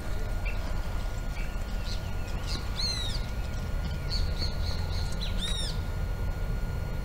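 Small birds chirping: two arched, falling calls about three and five and a half seconds in, with a quick run of short high notes between them, over a steady low rumble.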